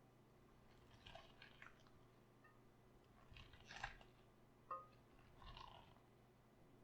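Raw cabbage crunching and crackling as it is handled, in a few short separate bursts, with one sharp click a little before the five-second mark.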